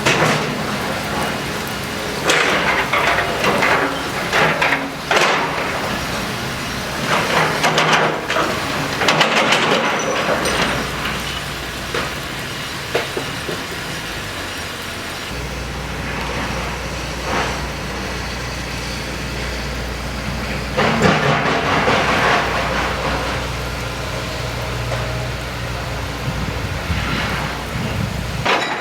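Large decorated dump truck's diesel engine with a manifold-split (mani-wari) exhaust running, a steady low engine note with several louder swells of noise.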